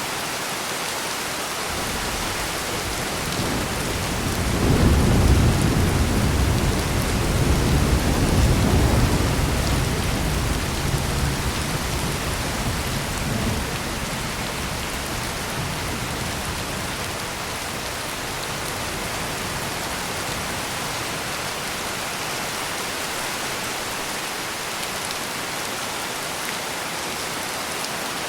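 Steady heavy rain pouring, with a long roll of thunder that builds about four seconds in, is loudest for a few seconds, then slowly rumbles away.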